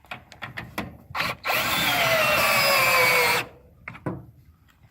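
Power drill running for about two seconds, its whine slowly dropping in pitch as it takes the load, driving the lift that raises the back end of a chicken tractor; a few clicks and knocks come before and after.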